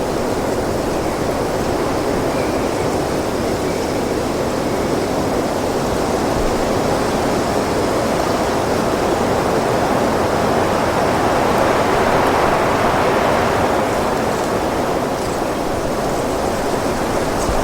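Wind blowing steadily as a continuous rushing noise, swelling in a stronger gust about twelve seconds in before easing.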